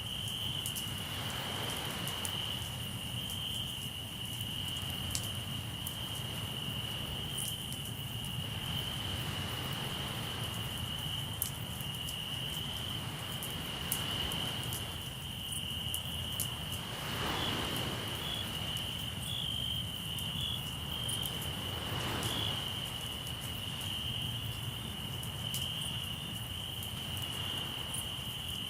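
Crickets trilling steadily at one high pitch over a crackling campfire, with scattered sharp pops from the burning wood. A few soft swells, likely waves washing in, rise and fall about a second and a half in, around seventeen seconds and around twenty-two seconds.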